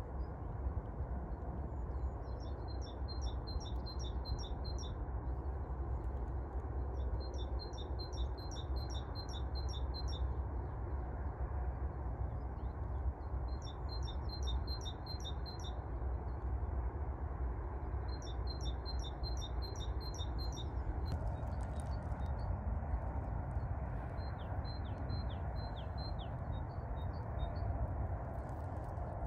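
A songbird singing a short phrase of rapid high notes, five times with pauses of a few seconds between them, over a steady low background rumble.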